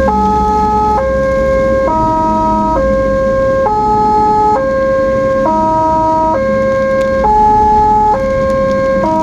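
Ambulance siren sounding a stepped tone pattern, jumping between several fixed pitches about once a second, with a low engine and road rumble underneath.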